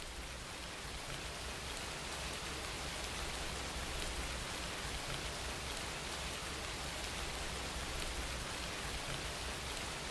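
Steady rain falling and pattering on a surface, a continuous even hiss that swells up over the first second or so and then holds level.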